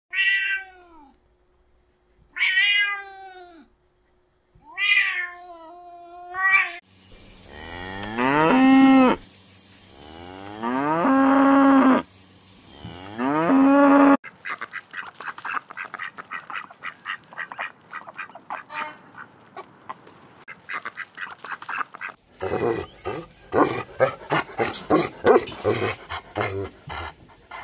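A run of separate animal calls: a cat meowing three times, then cows mooing three times in long drawn-out calls, then several seconds of fast, faint chattering. Near the end comes a dog's quick run of short repeated sounds.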